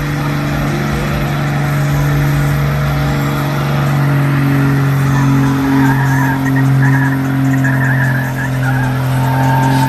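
A vehicle's engine held at steady high revs during a burnout, with the tyres squealing from about a third of the way in.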